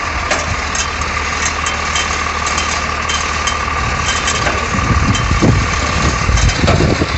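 Truck engine idling steadily under scattered metal clicks and knocks. A steady high whine runs until about six seconds in, and a heavier, uneven rumble builds near the end.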